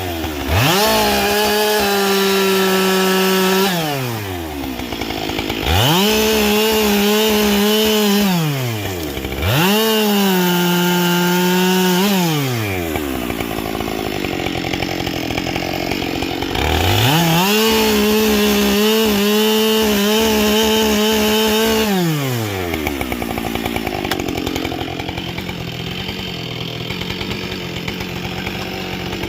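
Husqvarna 572XP two-stroke chainsaw, fitted with a 20-inch bar and carbide chain, throttled up to full speed and held there for a few seconds at a time, then let back down to idle, four times over. The longest stretch at full speed is about five seconds, followed by a longer spell of idling.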